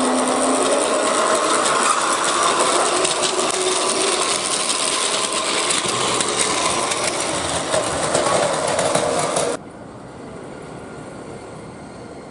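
Electric train running, steady rail and wheel noise with a faint motor whine that shifts in pitch. The sound cuts off sharply about nine and a half seconds in, leaving a quieter steady background.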